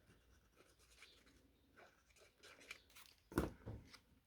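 Faint rustling and light taps of card stock being handled, then a short crackly tearing sound, twice in quick succession about three and a half seconds in, as a piece of card is peeled up off Tombow liquid glue.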